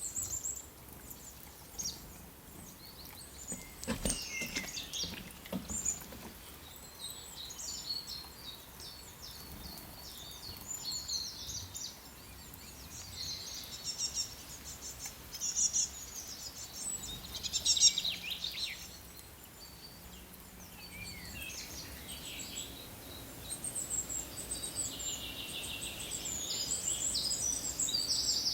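Songbirds chirping and trilling on and off, with a single knock about four seconds in.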